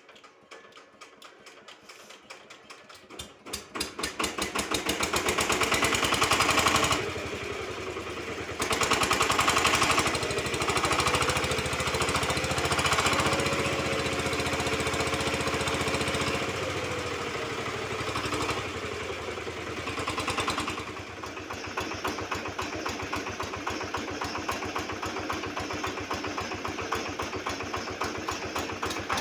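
Single-cylinder diesel engine of a VST Shakti 130 DI 13 hp power tiller coming up to speed about three seconds in, then running steadily with a rapid, even knock.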